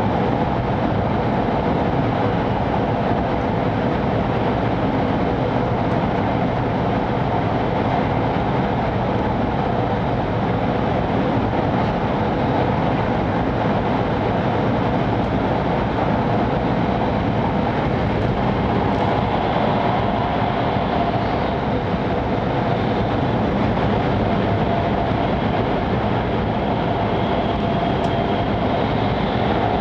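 Steady cabin noise of an E5 series Shinkansen running, heard from inside a passenger car: an even, unbroken rush with a faint steady hum.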